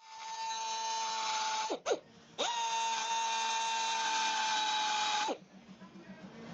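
High-speed power tool running with a steady high whine. About two seconds in its pitch briefly dips and revs back up, and a little after five seconds it winds down and stops.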